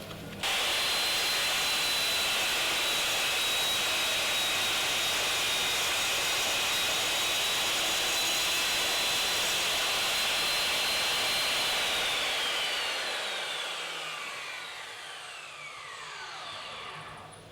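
Circular saw in a Triton Workcentre starts about half a second in and runs steadily at full speed with a high whine. Near the end it is switched off and spins down, its whine falling in pitch.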